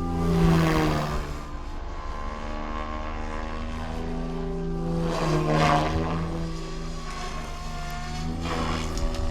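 SAB Goblin 630 electric RC helicopter in flight, its rotor and motor giving a steady pitched whine. It swells louder, with a falling pitch, as it passes close near the start and again about five seconds in.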